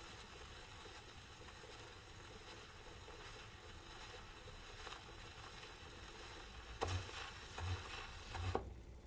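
Faint surface hiss and crackle from a shellac 78 rpm record as the stylus runs on past the end of the song. Near the end come three soft thumps a little under a second apart, once per turn of the disc as the stylus rides the run-out groove, and then the noise drops away.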